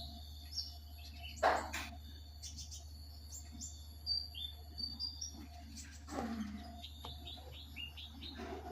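Small pet bird chirping in short, scattered high notes over a steady low hum, with a few brief noisy bursts in between.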